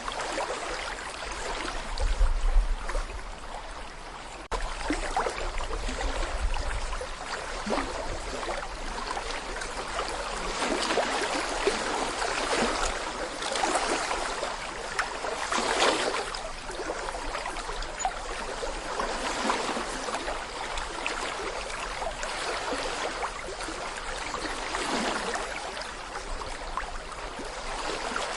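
Small brook babbling over stones: a steady rush of water broken by many quick gurgles and splashes. A low rumble comes in about two seconds in and lasts a few seconds.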